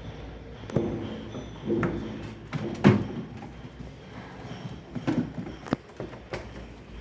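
Irregular knocks and clunks of hard objects being handled, about six in all, the loudest about three seconds in.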